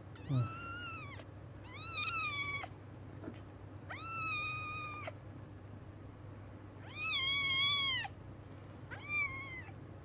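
British Shorthair kittens mewing while jostling to nurse: five high-pitched mews, each under about a second and rising then falling, spread over the stretch.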